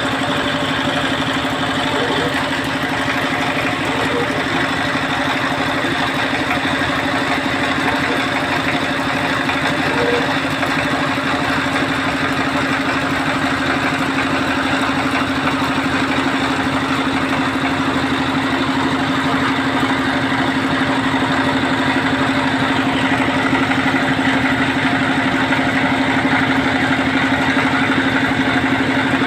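Small engine of a water-well drilling machine running steadily at constant speed, with an even hum.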